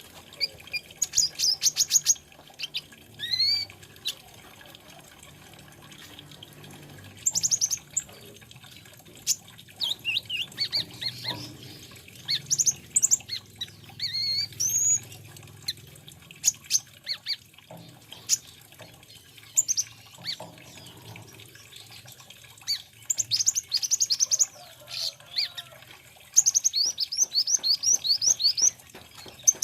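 Sunbird (the 'kolibri ninja' of Indonesian bird-keepers) singing: bursts of thin, very high chirps and quick rapid-note trills with short pauses between them, over a faint low hum.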